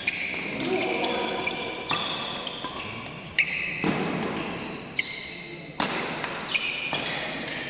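Badminton doubles rally: rackets striking the shuttlecock in a series of sharp hits, about eight of them, irregularly spaced from under half a second to about a second and a half apart, in a reverberant hall.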